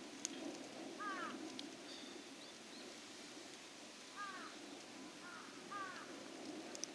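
Short, high-pitched animal calls that fall in pitch, several of them, some in quick pairs, with a few faint clicks in between.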